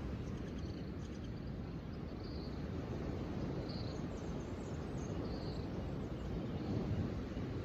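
Outdoor nature ambience: a steady low rumble with short, high bird chirps every second or so.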